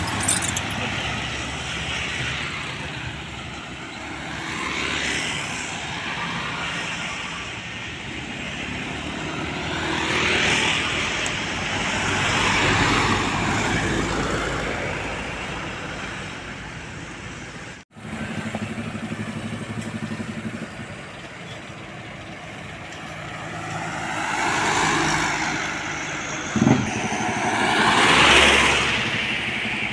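Road traffic with trucks passing one after another, each swelling louder as it approaches and fading as it goes by. The sound cuts out for an instant about halfway through, and there is a short knock near the end.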